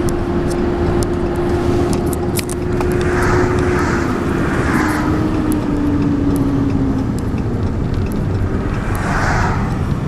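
Vehicle engine and road noise heard from inside the cab, a steady rumble with a drone that drops in pitch about halfway through as the vehicle slows to pull over.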